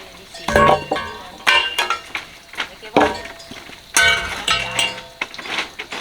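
Metal objects clanking: about four sharp strikes, each followed by a short metallic ring.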